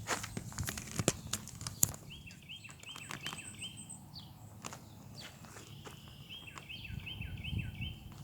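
Footsteps outdoors, a few sharp steps and knocks in the first two seconds, then two runs of short, quickly repeated high chirps.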